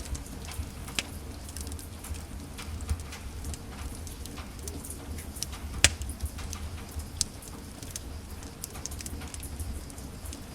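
Wood fire crackling in a fireplace: irregular snaps and pops over a low steady rumble, with one sharp, loud pop about six seconds in.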